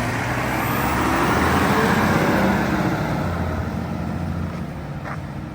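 Mack MRU front-loader garbage truck's engine pulling away. The engine noise builds over the first couple of seconds, then slowly fades.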